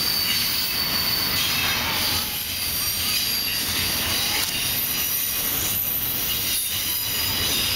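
CSX intermodal freight train of double-stack container cars rolling steadily past, a continuous rumble and rattle of wheels on rail with thin high wheel squeal over it.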